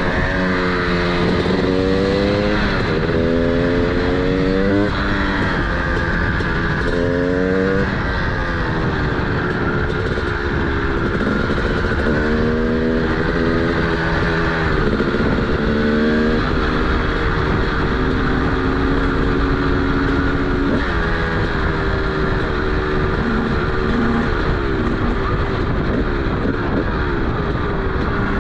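TM SMR 300 single-cylinder two-stroke supermoto engine with a DBR exhaust, accelerating through the gears. Its pitch rises and drops several times in the first half, then it runs at a steadier pitch.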